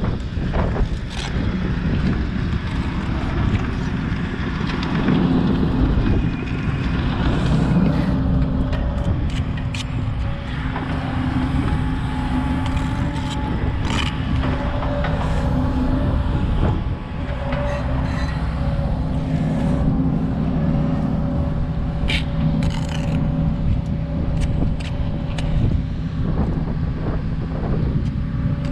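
An engine running steadily, with scattered short sharp taps and scrapes over it.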